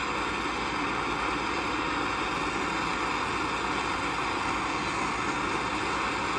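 Steady rushing hiss of a gas torch flame heating the casting moulds to drive out moisture before hot silver is poured.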